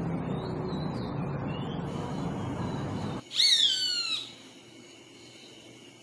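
A low rumbling background noise cuts off abruptly about three seconds in. A bird then gives a loud call of several quick falling notes lasting about a second. A faint steady high tone follows.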